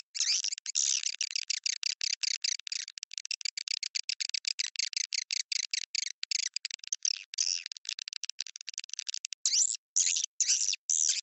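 Swiftlet lure call of edible-nest swiftlets: a rapid run of short, high twittering chirps, many a second, broken by a few brief pauses near the end. This is the kind of recording played in swiftlet houses to draw the birds in to nest.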